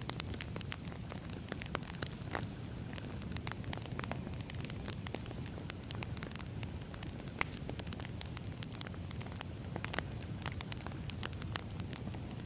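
Burning firewood crackling and popping, with many sharp irregular pops over a steady low rumble of the flames.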